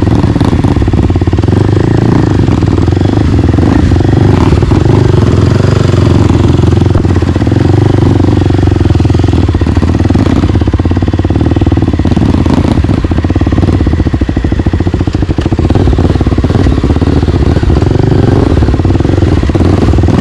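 Single-cylinder four-stroke dirt bike engine running steadily while being ridden, loud and close, with a rapid even firing beat.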